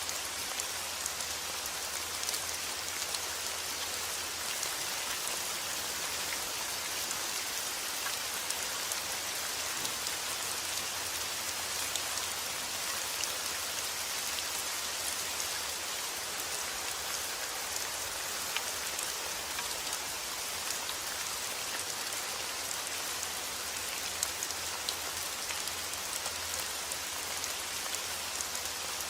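Steady rain falling, a dense even hiss with many small drop ticks pattering on a surface.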